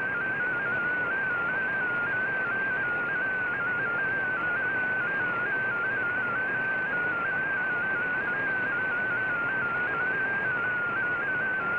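Shortwave MFSK digital-mode data signal from the VOA Radiogram broadcast, heard through a communications receiver: a single tone hopping rapidly between closely spaced pitches, over steady band-limited hiss.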